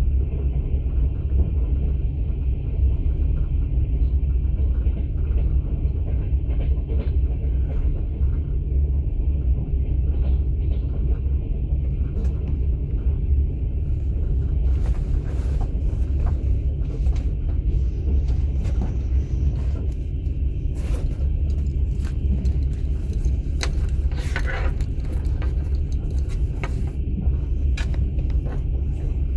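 Passenger train running, heard from inside a sleeper carriage: a steady low rumble of the wheels on the rails. Scattered clicks and rattles come in during the second half.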